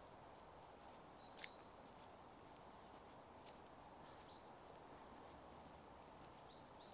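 Near-silent outdoor morning ambience: a faint steady background hush with a few short, high songbird chirps. There is one chirp about a second and a half in, one about four seconds in, and two quick falling chirps near the end.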